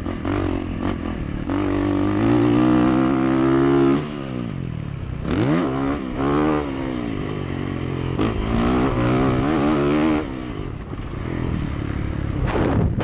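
Dirt bike engine revving hard while being ridden. Its pitch climbs steadily, drops sharply about four seconds in, then rises and falls over and over with the throttle and gear changes.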